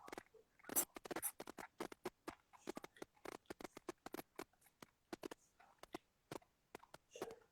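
Scattered soft clicks, taps and rustles at irregular intervals, with a few quiet breathy smears, as of hands and clothing moving close to the microphone.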